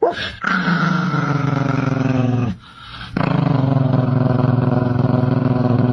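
A pet animal growling in two long, low, steady growls, each lasting two to three seconds with a short break between them.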